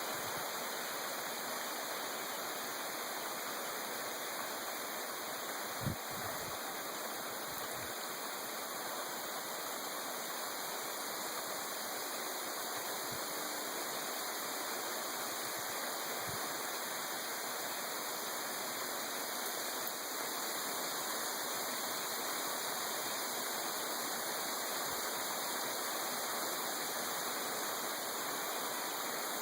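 Heavy rain pouring down as a steady, even hiss, with one dull thump about six seconds in.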